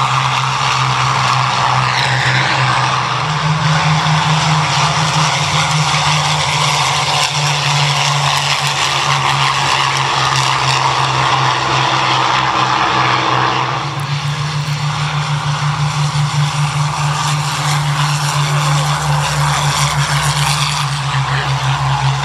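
Rolls-Royce Merlin V12 piston engines of several Spitfires and Hurricanes running on the ground during start-up and taxi, a loud steady engine drone. About fourteen seconds in the sound shifts and takes on a rhythmic pulsing beat.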